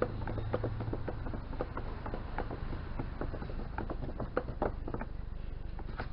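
Gel coat primer being stirred in a container, the stirrer knocking and scraping irregularly several times a second over a low steady hum.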